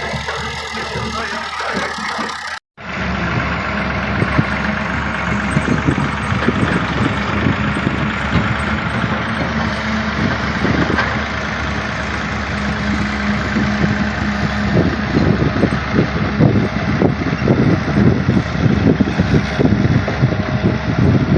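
Music for the first couple of seconds, cut off abruptly, then a John Deere excavator's diesel engine running. A steady hum rides on the engine until about two-thirds of the way through, after which the sound turns rougher and more uneven.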